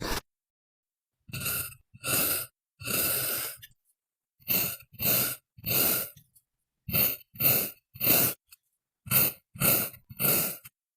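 Kinetic sand being worked by hand or tool: about a dozen short scraping strokes, mostly in groups of two or three, with dead silence between them.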